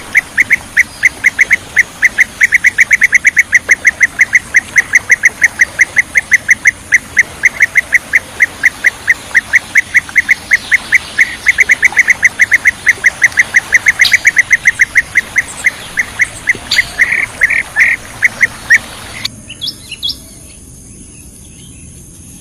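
Blue-tailed bee-eater (kirik-kirik laut) calling in a fast, unbroken series of short, high calls, about five a second, that stops about 19 seconds in; a few fainter calls follow, then only a low hiss.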